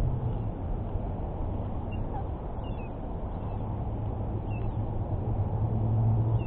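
A few short, high bird chirps, spaced a second or two apart, over a steady low rumble.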